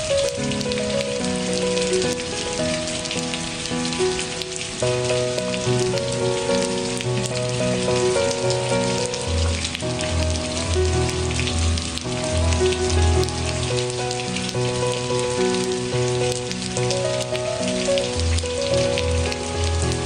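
Steady rain pattering, with soft instrumental music of held notes over a slow bass line mixed in.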